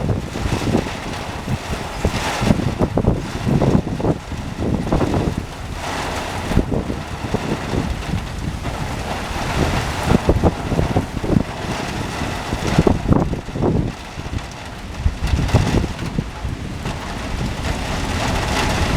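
Severe thunderstorm wind blowing hard across the microphone in uneven gusts, a heavy low buffeting rumble over a steady hiss.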